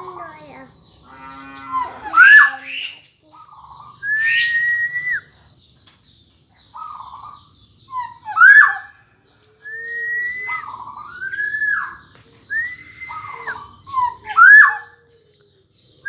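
Black-naped oriole (kepodang) singing: a series of loud fluty whistles that sweep up and fall away, one every second or two, mixed with shorter lower notes and a harsh buzzy note about a second in.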